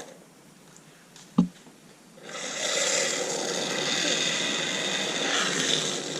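A short sharp knock, then a steady hiss of about four seconds as a can of Pump Saver is sprayed through the pressure washer pump, the antifreeze-lubricant filling the pump's valves and passages until it comes out the high-pressure side.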